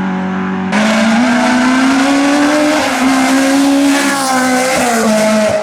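Hillclimb race car engine at high revs. A steadier engine note gives way abruptly, about 0.7 s in, to a louder, higher one that climbs, then drops and shifts pitch several times as the driver works the throttle and gears.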